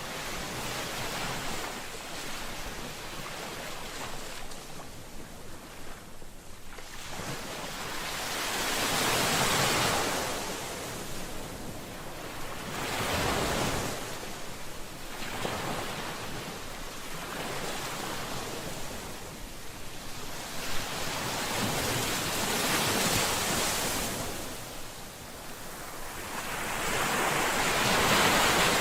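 Ocean waves, a continuous wash of surf that swells and fades as each wave comes in, with the loudest surge near the end.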